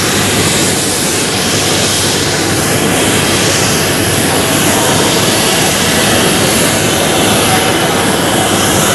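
Jet airliner engines running loud and steady on the runway, a dense roar with a hiss on top that slowly sweeps up and down.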